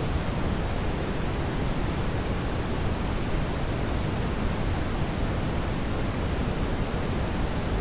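Brown noise: a steady, even rushing hiss, heaviest in the low end, that does not change.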